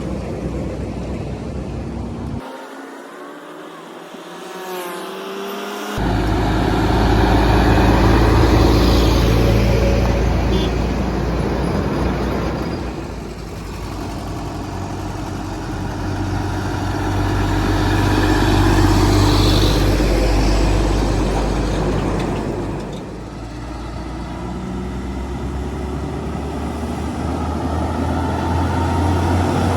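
Heavy trucks driving past on a highway, their engines and tyres swelling loud twice as vehicles pass close by. Near the end an engine's pitch rises steadily as it picks up speed.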